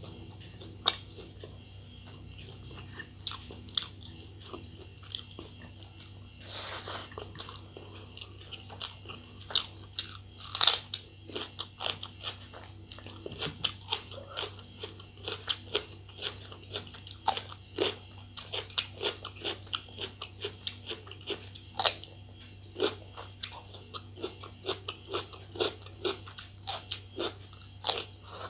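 A person eating close to the microphone: repeated biting, crunching and chewing of food, with a quick run of sharp mouth clicks that grows denser about a third of the way in.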